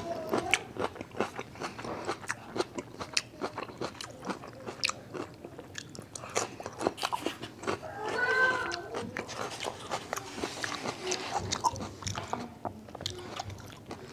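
A person chewing a mouthful of kimchi: a steady run of wet crunches and mouth clicks, briefly louder about eight seconds in.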